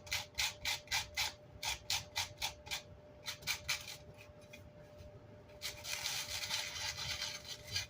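Coarse sandpaper scrubbed by hand over the back of an amp's grill cloth to knock off chipboard and glue remnants, in quick back-and-forth strokes about four to five a second. The strokes thin out and fade after about three seconds, then a steadier rubbing starts in the last two seconds.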